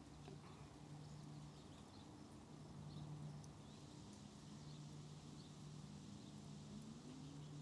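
Faint, scattered short high peeps of small birds over a low steady hum whose pitch rises briefly near the end.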